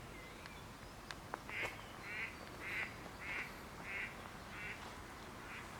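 A duck quacking, about six calls in a row, evenly spaced just over half a second apart.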